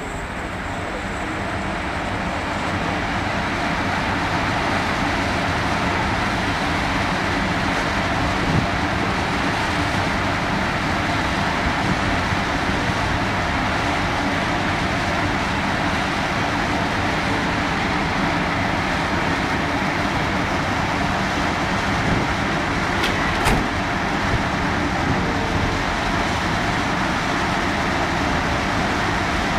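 Skoda Fabia's 1.9 TDI four-cylinder turbodiesel and its tyres running on chassis dynamometer rollers, loud and steady with an even rushing noise. The sound builds over the first few seconds and then holds at a constant speed, with a couple of brief knocks along the way.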